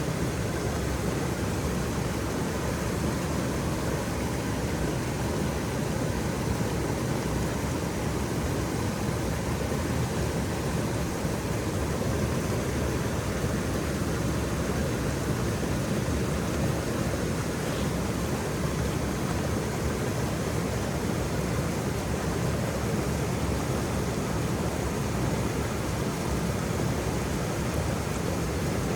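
Waterfall rushing in a steady, even roar of falling water, deepest in the low end, with no breaks or changes.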